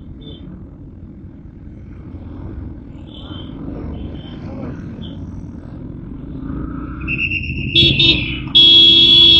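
Steady wind and road rumble from a moving motorcycle in city traffic, with faint short horn toots in the distance. Near the end a vehicle horn close by honks loudly in long blasts.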